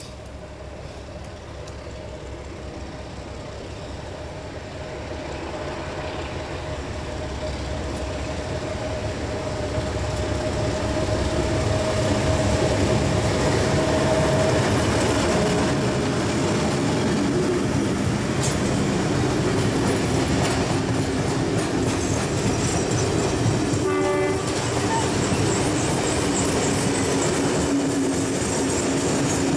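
A heritage passenger train passes close by. It starts with a diesel locomotive's steady engine hum and grows louder over the first dozen seconds as it nears. The carriages' wheels then rumble and click over the rail joints, with a short rattle of rapid ticks near the end.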